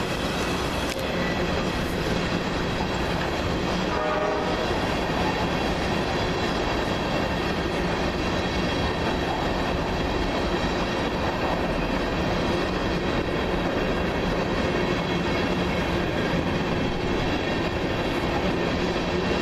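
A long freight train of empty cars rolling past, a continuous steady rumble of wheels on rail with some clickety-clack.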